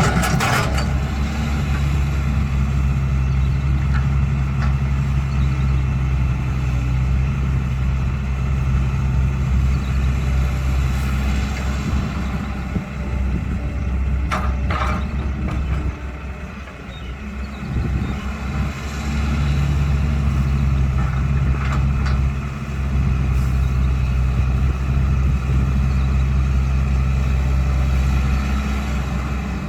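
Diesel engine of a Cat 312 excavator running, working harder in two long stretches with a brief easing around the middle. A few short, sharp clatters at the start and about halfway through.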